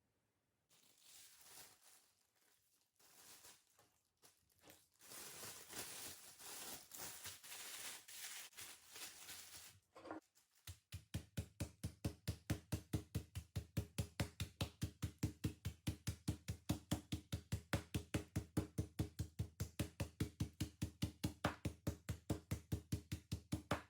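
Kitchen food preparation on a cutting board. First there are several seconds of uneven rustling and scraping noise. Then, from about halfway in, a long run of steady, even knocks comes at about four to five a second.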